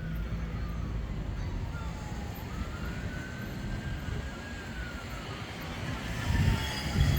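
Emergency vehicle siren in a slow wail, its pitch falling, rising again and falling, over a steady low rumble that grows louder near the end.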